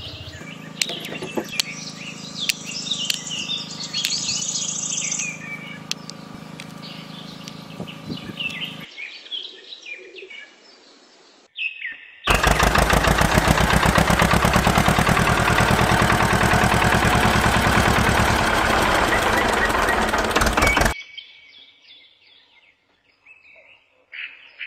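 Small birds chirping over a steady low hum. About twelve seconds in, a loud, rapid engine-like chugging starts abruptly, runs for about nine seconds and cuts off, after which faint chirping returns.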